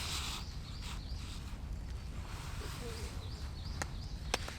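Outdoor forest sound: faint small bird chirps over a steady low rumble, with a short rustle at the start and a few sharp clicks near the end.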